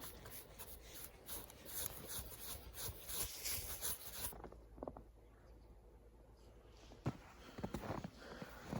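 Snow being brushed and scraped off by hand, a rapid scratchy rustling for about four seconds. After that come a few fainter, scattered crunches and knocks.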